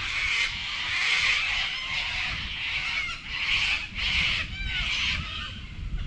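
Birds giving a run of harsh, raspy squawks, each half a second to a second long, with a few short chirps between them.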